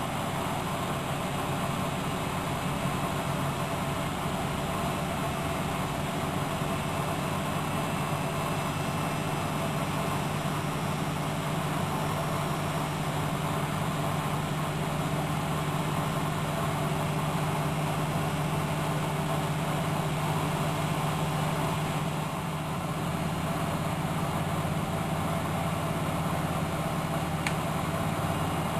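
Miele De Luxe Electronic W763 washing machine running steadily, a continuous mechanical hum with a strong low tone, dipping slightly about three quarters of the way through.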